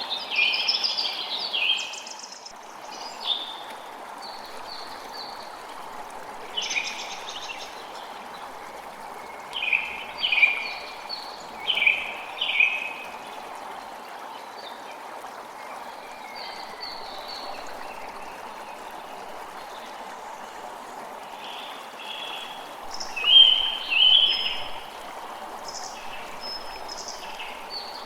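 A creek running steadily, with forest birds calling over it in clusters of quick chirps: at the start, again about a third of the way in, and loudest about four-fifths of the way through.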